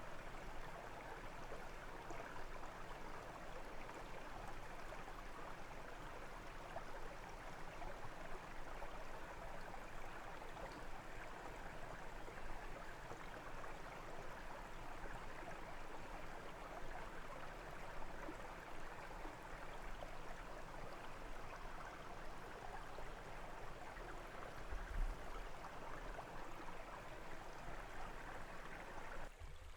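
Brook water flowing and babbling steadily over stones. A brief low thump is heard near the end.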